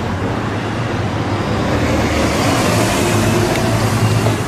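A car's engine running steadily, with a rushing noise that swells about halfway through.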